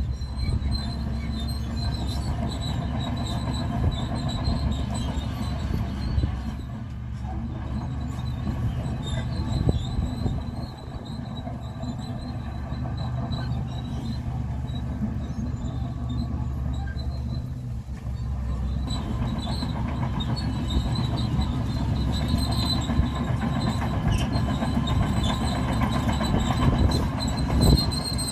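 Crawler bulldozer's diesel engine working under load, with a thin high whine over the low drone, typical of steel tracks and running gear. The level dips briefly a few times and picks up again about two-thirds of the way through.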